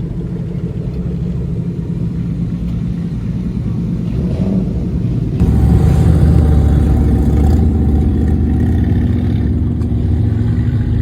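Car engine and exhaust running with a low, steady rumble, getting louder and deeper about five seconds in.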